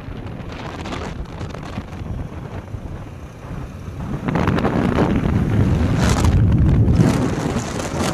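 Wind buffeting the microphone, a rough rumbling rush that grows louder about four seconds in.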